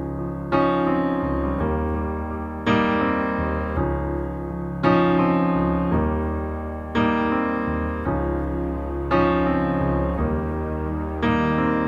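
Piano music: slow, sustained chords struck about every two seconds, each ringing and fading before the next.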